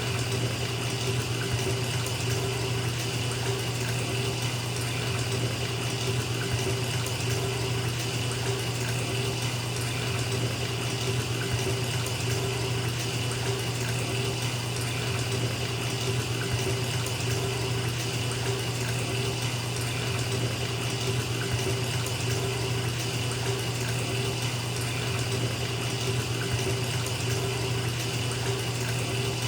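Tap water running steadily into a filling bathtub, an even rushing splash with a low hum underneath.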